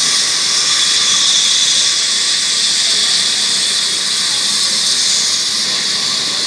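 Sawmill saw cutting through a log: a steady high-pitched hiss and whine.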